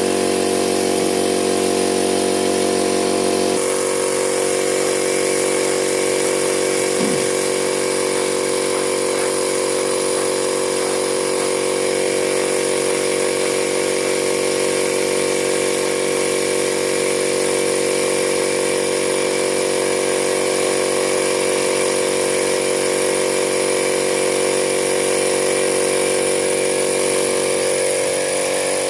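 A motor running steadily with a constant pitched hum and a thin high whine, its tone shifting abruptly a few seconds in and again near the end.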